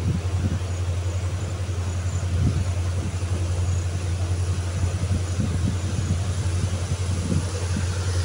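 Steady low rumble of a moving passenger train, heard from a coach window as the train gathers speed out of the station, with irregular low thumps of wind buffeting the microphone.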